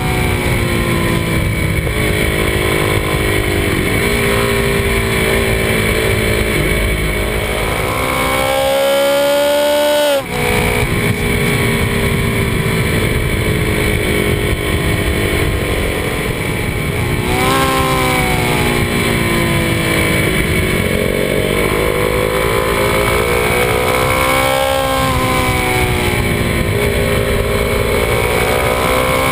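Kawasaki D-Tracker 250's single-cylinder engine running under way, its pitch falling and rising again and again as the throttle opens and closes through bends, with a short break in the sound about ten seconds in. Wind noise rushes under the engine.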